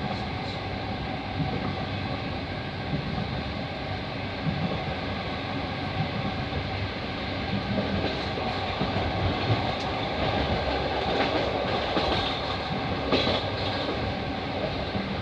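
Passenger train running, with a steady rumble of wheels and carriage heard from inside the car. A few sharp clicks stand out in the second half.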